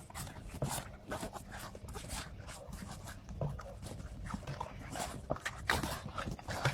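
A dog making a series of short, irregular noises, over a faint steady low hum.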